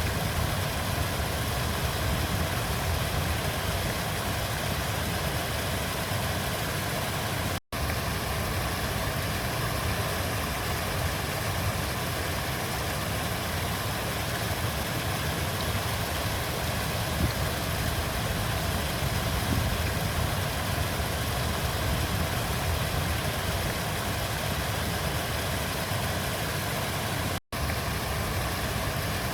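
River water flowing in a steady, continuous rush with a low rumble, cut twice by a split-second drop to silence.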